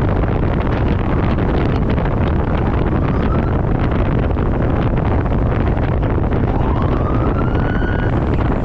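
Steady, loud wind rush over a motorcycle rider's camera microphone at road speed. A faint tone rises in pitch about three seconds in and again over the last two seconds, as an engine does when it revs up.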